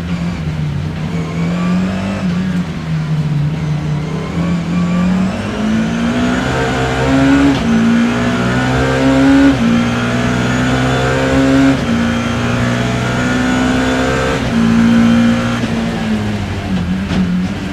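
Onboard sound of a BMW E30 M3's four-cylinder S14 race engine under hard driving. The note wavers at first, then climbs through several upshifts, dropping at each change. It falls to a lower, unsteady note near the end as the car slows.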